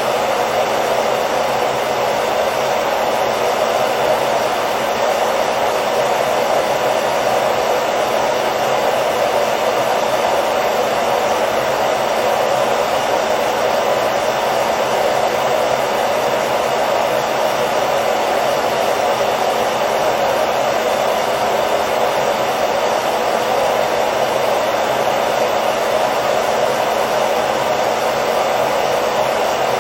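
Hair dryer running continuously with a steady, unchanging whoosh of blown air over its motor hum, used as white noise to lull a baby to sleep.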